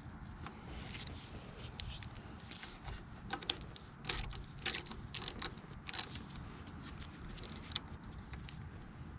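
Irregular light metallic clicks and clinks of hand tools working on a car's power steering pump fittings, a sharper click about four seconds in.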